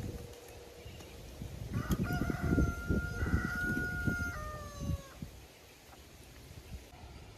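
A rooster crowing once, starting about two seconds in: a long held call that drops in pitch at the end. Wind buffets the microphone underneath.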